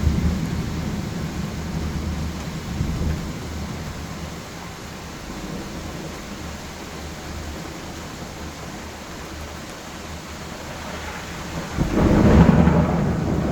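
Thunderstorm: steady rain with rolling thunder, a low rumble fading out over the first few seconds, then a loud thunderclap near the end that dies away in a long rumble.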